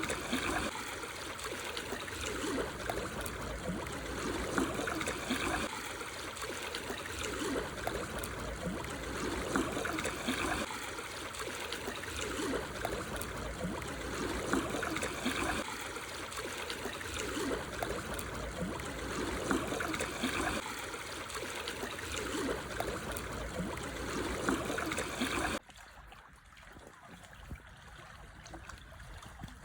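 Small waves washing and trickling over black stones on a shore, swelling about every five seconds. Near the end the sound drops suddenly to a much quieter wash.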